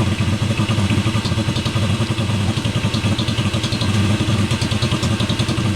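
Eberspacher D1L diesel heater just after lighting, its burner running with a fast, rough pulsing, like a small engine, over the hum of its blower. The uneven burning comes with smoke puffing from the exhaust, and the owner wonders whether diesel has pooled in the bottom of the heater.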